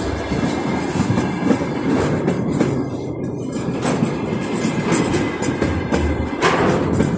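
Train running on the track: a steady rumble of wheels on rails, with sharp clicks of the wheels over rail joints about once a second.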